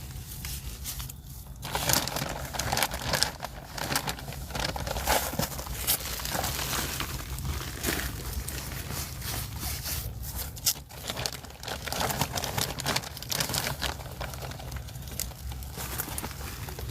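Crinkling and crackling from handling a bag of peat moss, starting about two seconds in and going on in quick, irregular crackles.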